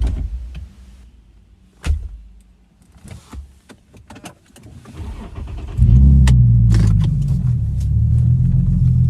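A single thud about two seconds in and a few small clicks and knocks inside a car, then close to six seconds in the car's engine starts and runs steadily with a low hum.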